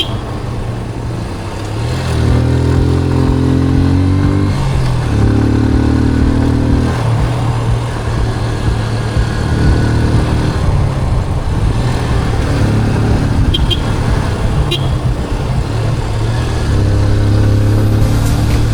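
Motorcycle engine running on the move, its pitch stepping up and down with throttle and gear changes, over steady wind and road noise.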